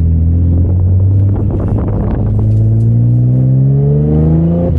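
Twin-turbo Infiniti G37's V6 engine running under load, with a spell of rapid crackling about a second and a half in. Then it accelerates, pitch rising steadily, until it drops suddenly at the end as if on a gear change.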